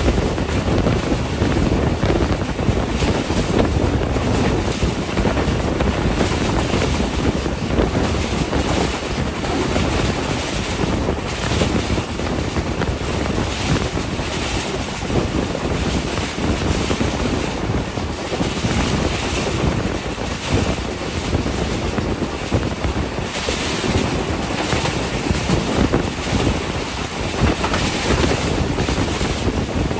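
A passenger train coach running at speed: a steady rush of wind and wheels rolling on the rails through an open window, with wind buffeting the microphone.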